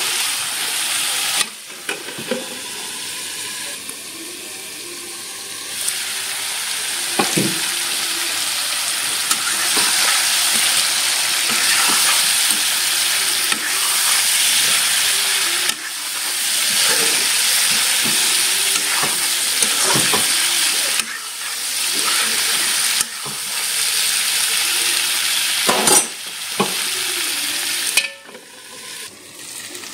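Broiler chicken pieces sizzling as they fry in a metal wok, stirred with a metal spoon that scrapes and knocks against the pan now and then. The sizzle drops much quieter near the end.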